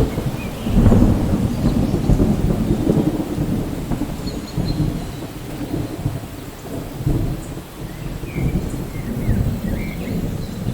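Thunderstorm: low thunder rolling and rumbling in swells over steady rain, loudest about a second in.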